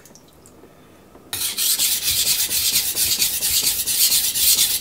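Knife blade scraping back and forth on a wet sharpening stone, starting about a second in and going on in quick, repeated gritty strokes.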